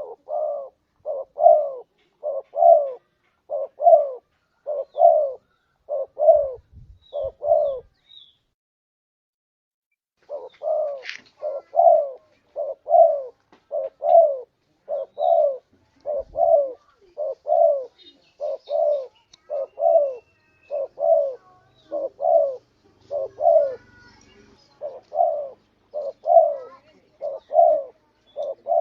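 Spotted dove (tekukur) cooing: a long run of short, hoarse coos repeated roughly every half to three-quarters of a second, with a pause of two to three seconds about a third of the way in.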